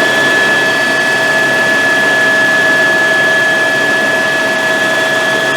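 Helicopter turbine engine and rotor running steadily, heard from on board: a dense, even roar with a constant high turbine whine over it.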